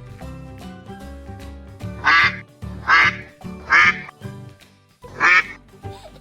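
Duck quacking four times in short, loud calls over background music.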